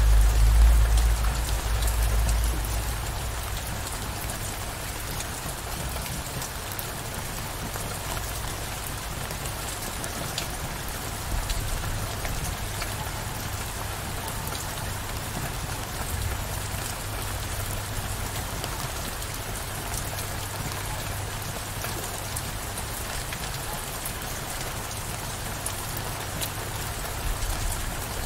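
Steady downpour of rain, an even hiss with scattered drop ticks. A low rumble of distant thunder fades away over the first two to three seconds, and a fainter rumble comes in near the end.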